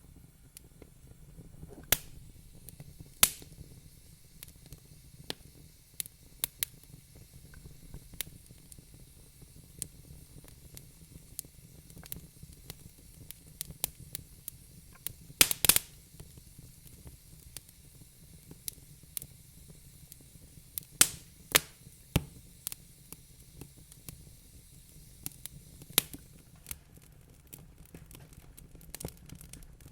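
Wood fire crackling in a fireplace: irregular sharp pops and snaps over a low, steady rumble, with a quick burst of loud pops about halfway through.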